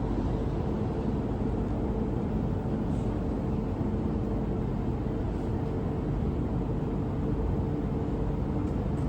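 MTR Island Line Q-train electric multiple unit running, a steady rumble with a faint low hum and no change in pace.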